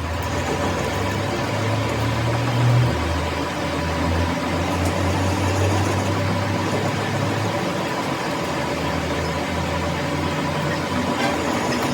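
A machine running steadily with a low hum under a constant hiss, louder for a moment about three seconds in.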